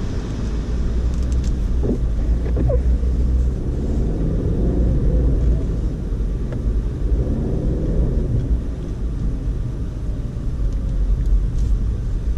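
2012 Audi A4 Quattro driving on a snow-covered road: a steady low rumble of engine and tyres, with the engine note swelling and falling twice.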